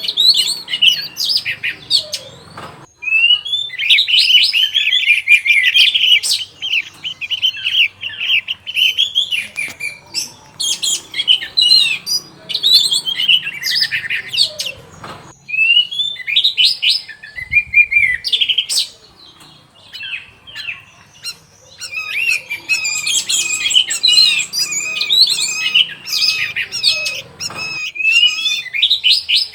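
Orange-headed thrush (anis merah) singing a long, fast, varied song of whistled and chattering notes. The song comes in long phrases broken by short pauses, with a quieter lull a little past the middle.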